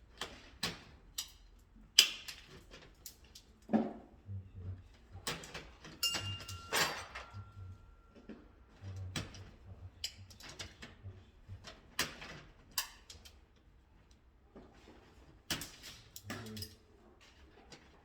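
Irregular clicks and light knocks of hand work with tools and small electrical parts, during wiring work for an electrical installation. A thin steady tone sounds for about two and a half seconds starting about six seconds in.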